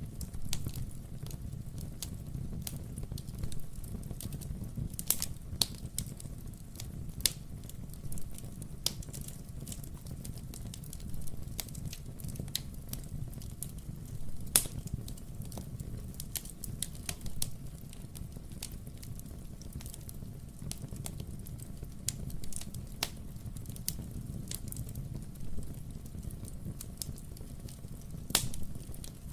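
Wood fire in a fireplace crackling steadily over a low rumble of flame, with irregular sharp pops from the burning logs, a few of them louder.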